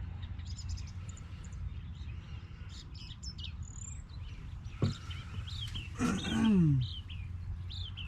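Small birds chirping on and off over a steady low hum. There is a single knock about five seconds in, and a louder, drawn-out falling call about a second later.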